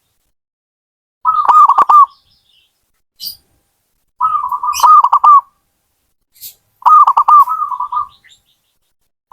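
Zebra dove (perkutut) singing: three phrases of rapid staccato coos, each about a second long and a couple of seconds apart, with faint high chirps between them.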